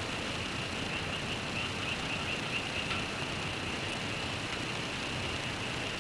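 Steady ambient wash of rain and road traffic with a continuous high chorus of frogs running through it.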